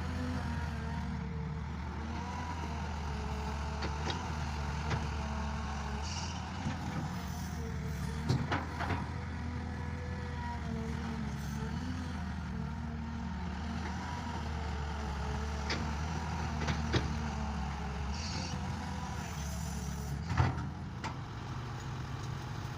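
Tractor engine running steadily under load while preparing a field, with a few sharp knocks or clanks, the loudest about 20 seconds in.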